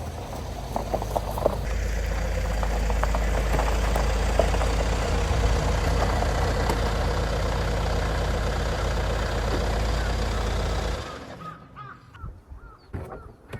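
Steady low rumble of a vehicle running, which cuts off abruptly about three-quarters of the way in. Crows then caw faintly.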